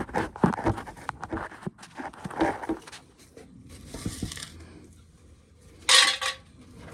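Dry shelled corn kernels rattling and clattering as they are scooped into a plastic ice cream bucket, in irregular bursts, with a short louder rush of kernels about six seconds in.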